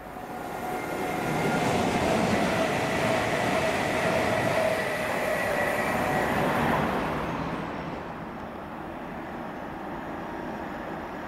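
A train passing through a station at speed: wheel and running noise builds over the first second or two, holds loud with a faint tone that sags slightly in pitch, then falls away about seven seconds in to a lower steady rumble.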